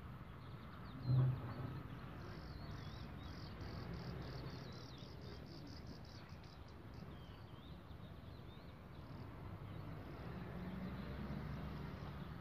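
A bird calling: a run of high chirps that comes faster and faster, mixed with warbling notes. A short low thump about a second in.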